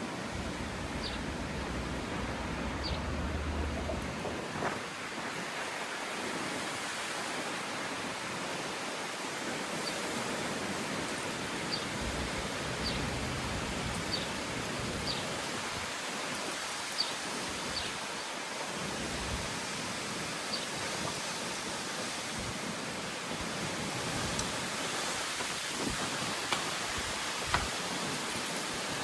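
Wind of an approaching storm rushing steadily, with gusts buffeting the microphone in low rumbles near the start and again partway through, and a few scattered sharp ticks.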